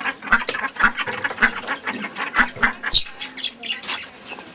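Many captive birds calling at once in quick, short squawks, thickest for the first three seconds, with one sharp high squawk about three seconds in and fewer calls after.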